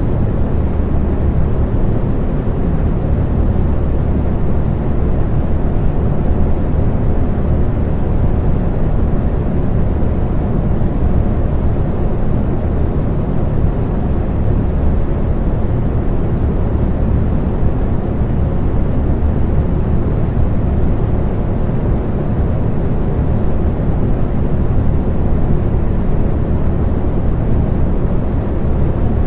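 Electric fan running with a steady, low whooshing hum that does not change.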